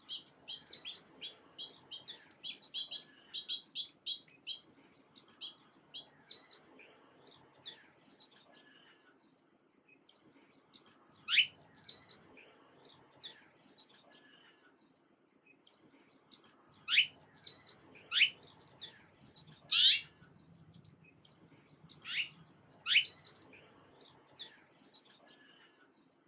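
Small birds chirping: a quick run of short high chirps for the first several seconds, then six loud, sharply upward-sweeping calls spaced one to a few seconds apart.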